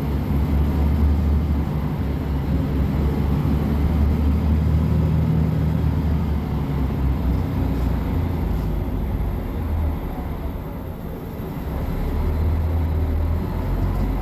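Mercedes-Benz O500MA BlueTec 5 bus's diesel engine running with a steady low rumble, paired with a ZF 6HP-604C automatic gearbox. It eases off about ten seconds in, then picks up again.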